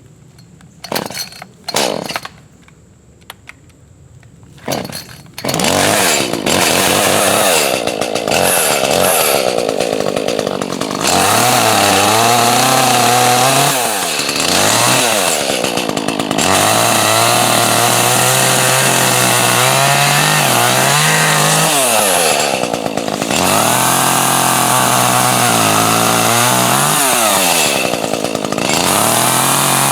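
Gas chainsaw: a few short sputters in the first seconds, then the engine starts about five seconds in and runs, revving up and down as it cuts through logs.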